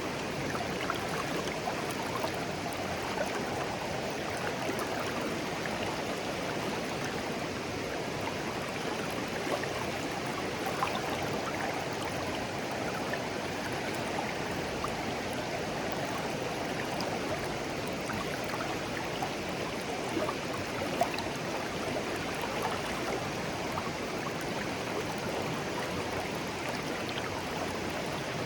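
Shallow, clear stream flowing steadily over stones, a continuous babbling rush with small splashes and gurgles scattered through it.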